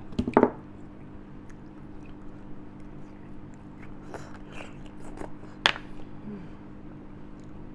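Mouth sounds of eating beef bone marrow close to the microphone: a loud burst of biting and sucking in the first half second, then quieter chewing with scattered wet clicks and one sharp click near the six-second mark.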